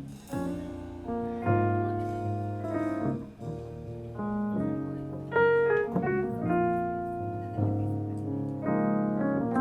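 Live band music: sustained keyboard chords, electric-piano-like, changing about once a second over a low bass line.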